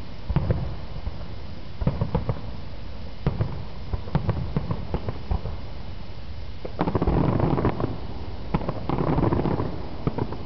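Aerial fireworks shells bursting in a display, heard as clusters of sharp bangs every second or two. In the second half the bangs give way to two longer, denser rushes of noise.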